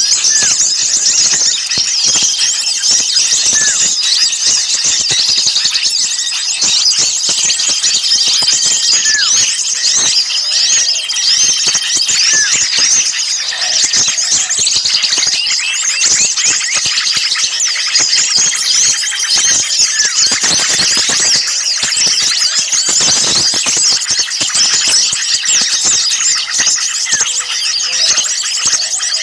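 Dense, agitated chorus of many small songbirds chattering and chirping at high pitch, with a short steady whistled note recurring every few seconds. It is a bird-lure recording of noisy small birds, used to draw wild birds in.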